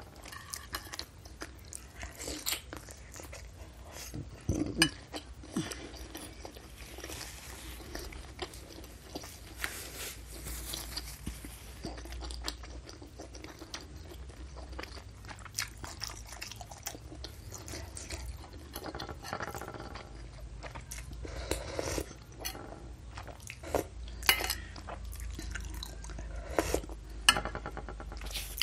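Close-miked chewing of a mouthful of bakso (Indonesian beef meatball soup), wet mouth sounds broken by scattered sharp clicks and crunches.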